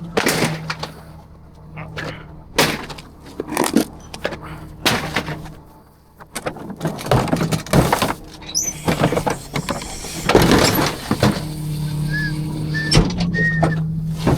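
Rear-loader garbage truck working, its engine humming steadily under a string of loud metal bangs and clatter from trash and dumpsters being handled. The hum grows louder in the last few seconds.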